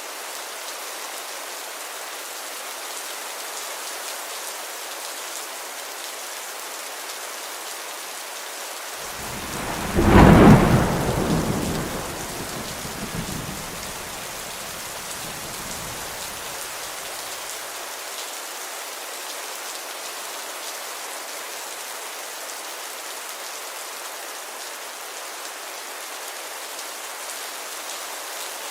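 Steady rain falling, with a single clap of thunder about ten seconds in whose rumble dies away over the next several seconds.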